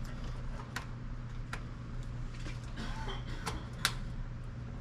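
Scattered light clicks and taps of small vending machine parts being handled, a handful of separate ticks over a steady low hum.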